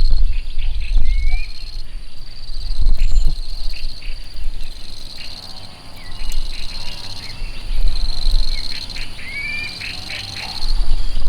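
Outdoor nature ambience: birds chirp in short rising calls over a steady high insect trill. A low rumble swells at the start and again near the end.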